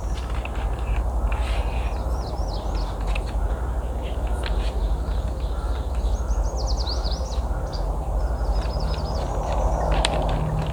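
A songbird chirping in quick runs of high notes, twice, over a steady low outdoor rumble, with scattered sharp clicks of gear being handled.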